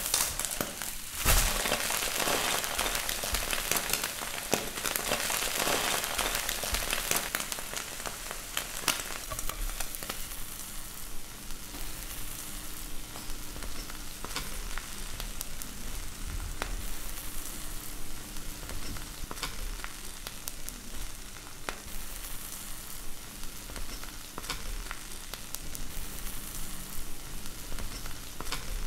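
An egg omelette with bread frying in a nonstick pan: a steady sizzle, louder for the first several seconds and then settling quieter, with occasional light clicks.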